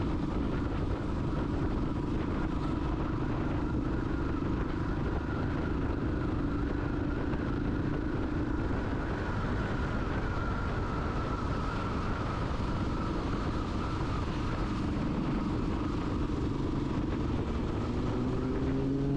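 Motorcycle engine running at a steady cruising speed, with a continuous rumble of wind and road noise. Its pitch rises a little near the end.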